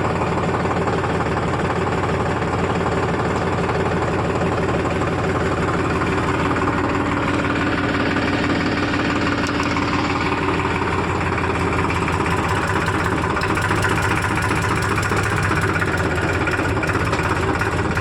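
Heavy diesel machinery engine running steadily, its note shifting slightly about halfway through.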